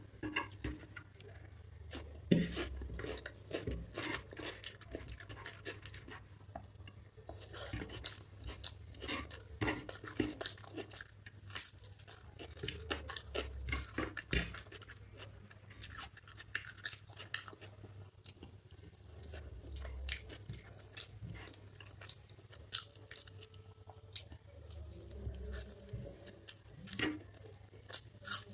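A person eating chicken biryani and salad with their fingers, close to the microphone: irregular chewing with many sharp mouth clicks and smacks.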